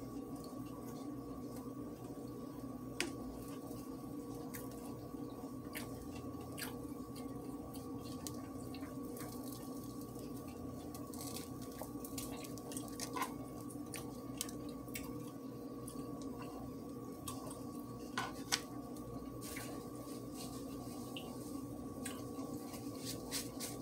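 Close mouth sounds of chewing a crispy chicken sandwich: scattered small wet clicks and crunches, over a steady electrical hum.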